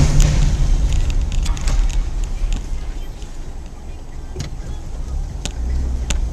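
Car running, a steady low engine and road rumble that eases off around the middle and builds again, with scattered sharp clicks.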